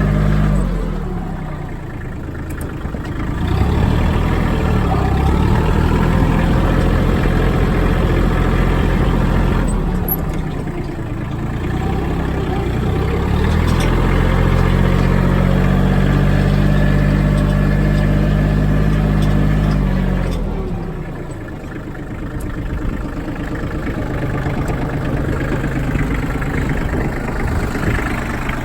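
Iseki TG5330 compact tractor's 33 hp diesel engine running, its revs dropping and climbing several times, held high for long stretches in between and lower near the end.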